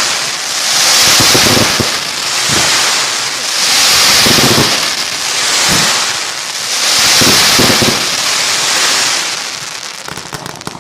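Fireworks going off with a loud rushing hiss that swells and fades about every one and a half seconds, mixed with pops and crackles. The hiss dies away near the end.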